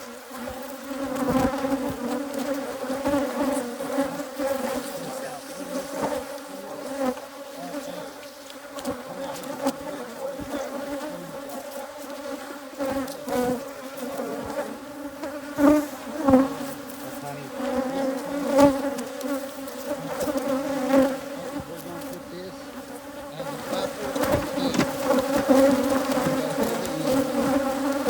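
Africanized hybrid honeybees buzzing around an opened hive: a steady, wavering hum of many bees. A few short knocks come about halfway through.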